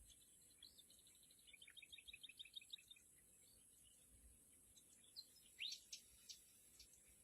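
Faint bird calls: a quick run of chirps about a second and a half in, then a few single calls, one a sharp upward-sweeping note about two-thirds of the way through, over a steady high-pitched hiss.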